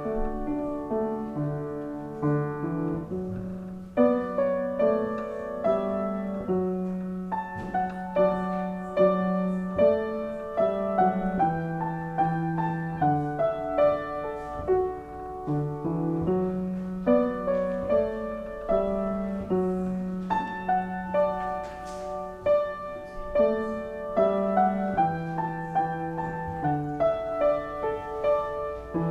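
Slow instrumental music played on a piano or keyboard, with a sustained bass line under chords and melody notes.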